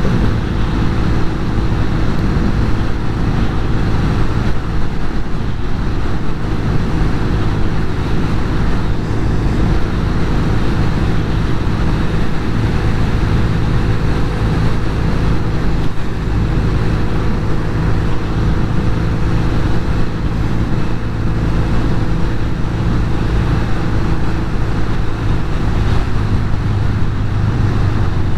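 Norton Commando 850 Mk2's parallel-twin engine running steadily while the bike is ridden at an even speed, with wind rushing over the microphone.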